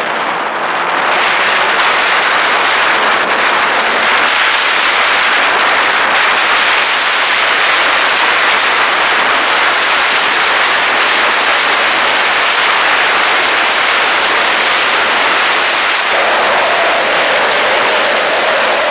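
Heavy rain hissing steadily and loudly, close to the microphone. Near the end a steady mid-pitched hum joins it.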